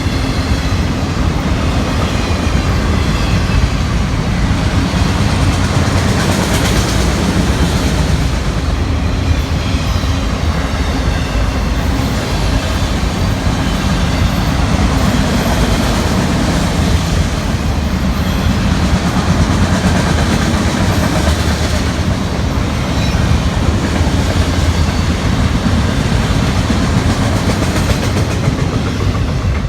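A freight train's cars rolling steadily past on the track, loud and unbroken.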